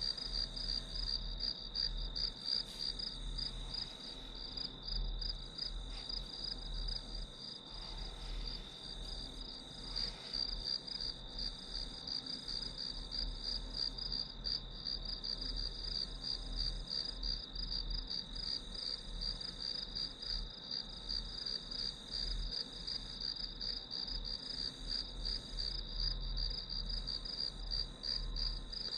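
Crickets and other grass insects chirping in a continuous high, finely pulsing trill, with a faint low hum underneath.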